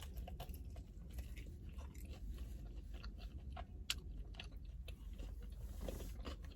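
A person chewing and biting food close to the microphone, with many small wet mouth clicks over a steady low hum, and one sharper click about four seconds in.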